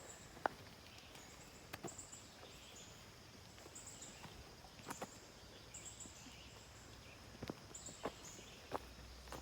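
Faint footsteps on a forest trail, with a few sharper cracks and crunches underfoot, against a steady hiss of insects. Short high chirps repeat every second or so.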